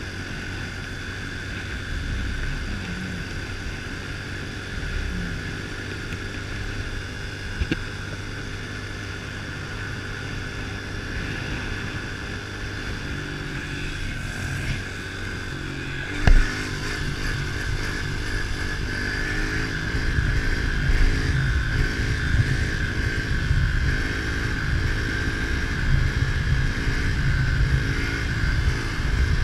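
Small 110cc four-stroke pitbike engine running at low speed while being ridden, its pitch shifting with the throttle, under low rumbling noise on the microphone that grows louder in the second half. One sharp thump about sixteen seconds in.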